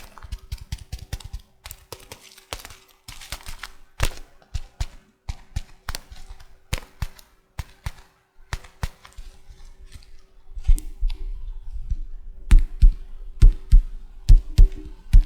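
Tea packaging tapped and handled by fingers and nails for ASMR: irregular light clicks and scratches, then from about ten seconds in a steady rhythm of heavier taps, about two to three a second.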